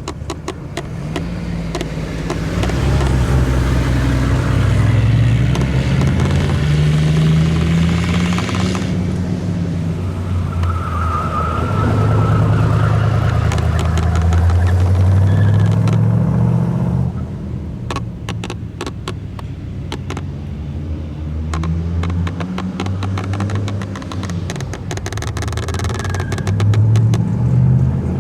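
Car engine running loudly and being driven, its pitch rising and falling as it revs up and eases off, with scattered sharp clicks.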